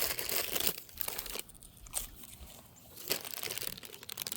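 Crinkly rustling and rubbing close to the microphone, loudest in the first second and then coming in uneven patches with a few sharp crackles.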